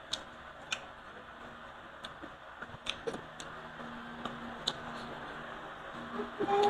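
Close-up eating sounds of someone chewing fried tilapia and rice: wet mouth clicks and smacks at irregular intervals, with a louder short sound near the end.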